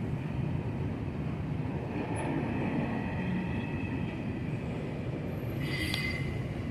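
Freight container train cars rolling past, their wheels running on the rails with a steady rumble. A high-pitched wheel squeal breaks in near the end.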